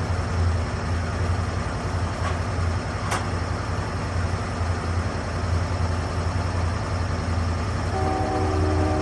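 Lucas Mill 10-30 portable sawmill's engine running steadily at work, with a sharp tick about three seconds in and a steadier higher tone coming in near the end.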